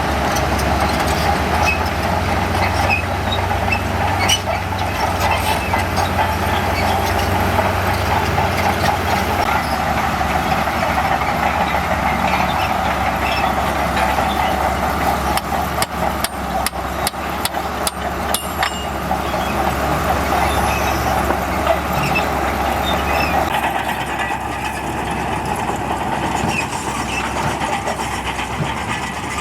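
Shantui bulldozer's diesel engine running under load as it pushes dirt, with a steady low drone and a high whine of the running gear. A run of sharp metallic clanks comes about halfway through.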